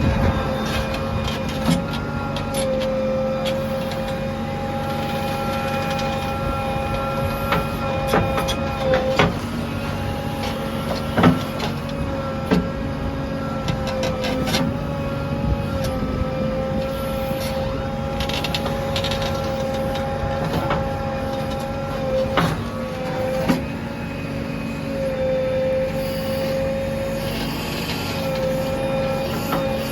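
JCB backhoe loader's diesel engine running under load with a steady hydraulic whine, broken by occasional sharp knocks as it works the soil.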